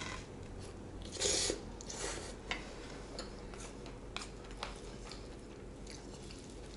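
Close-up chewing of a mouthful of blood clam bibimbap, with a crunchy burst about a second in. Scattered light clicks of a wooden spoon and chopsticks against the bowl as the rice is mixed.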